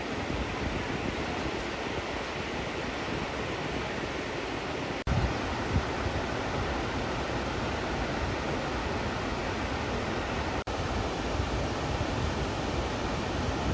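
Steady rush of a waterfall, with some wind rumble on the microphone. The sound cuts out for an instant twice, at about 5 and 11 seconds, as the footage switches between clips.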